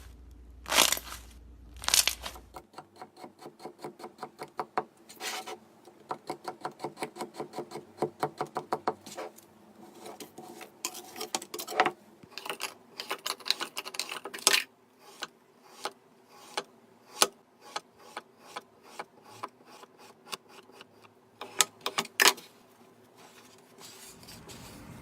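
Slime being pressed and worked by hand: a fast run of small popping clicks, several a second, with a few louder snaps among them.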